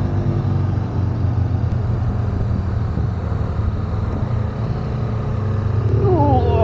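Parallel-twin motorcycle engine pulling steadily in first gear up a steep climb, with a constant low note and rushing road and wind noise.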